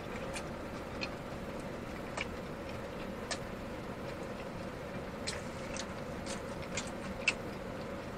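Close chewing of a bacon cheeseburger: irregular wet smacks and clicks of the mouth over a faint steady hum.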